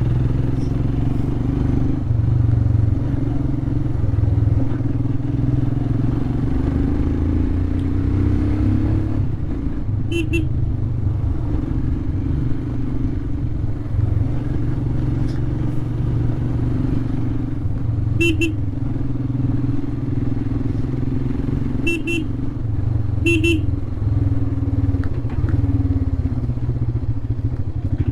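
Royal Enfield Himalayan's 411 cc single-cylinder engine running steadily under way. Short horn beeps sound four times, spread across the second half.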